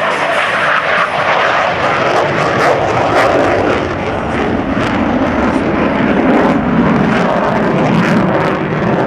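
F-18 fighter jet's two GE engines at high power, a loud rough jet noise with a ragged crackle, deepening in pitch over the seconds as the aircraft moves past.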